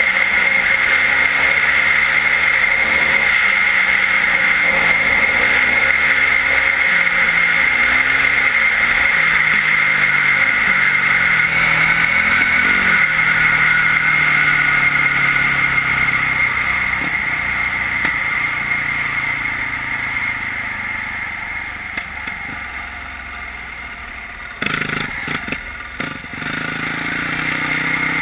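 Yamaha WR450F enduro bike's single-cylinder four-stroke engine through an Akrapovič exhaust, running under way with the revs rising and falling. About two-thirds of the way through it eases off and quietens. A few sharp knocks follow, then the engine picks up again.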